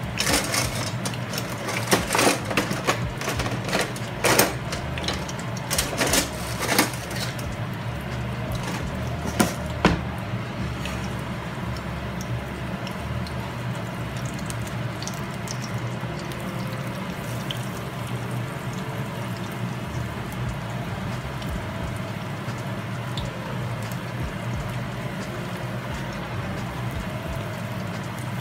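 Cornbread hoecakes sizzling steadily in shallow oil in a skillet. Several sharp clicks and scrapes of a spatula against the pan come in the first ten seconds or so.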